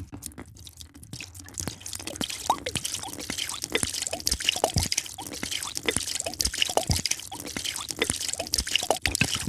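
A drink being poured into a glass: liquid splashing and bubbling, with many short dripping, bubbling blips that rise quickly in pitch.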